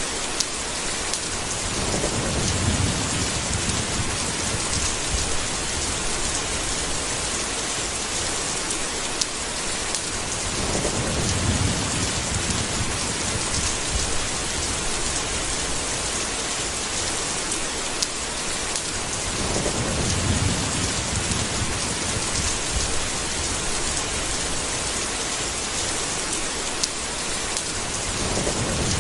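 Steady heavy rain hissing, with low rolls of thunder swelling up three times, each a couple of seconds long, about eight to nine seconds apart. A few sharp drip taps stand out from the rain.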